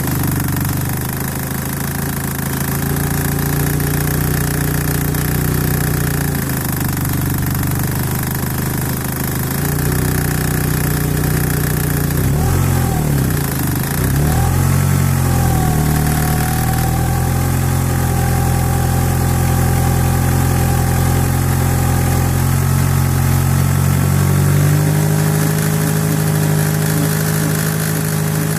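1991 Eagle Talon TSi AWD's turbocharged 2.0-litre four-cylinder engine running at idle. It is revved briefly twice around the middle, holds a slightly higher speed for a while, then settles back near the end.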